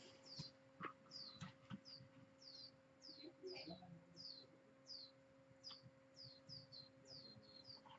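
Faint bird chirping: short, high chirps that drop in pitch, repeated about twice a second, over a low steady hum and a few light clicks.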